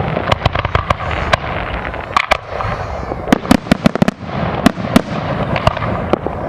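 Aerial fireworks going off in rapid succession: many sharp booms and bangs, some in quick clusters, over a continuous crackle.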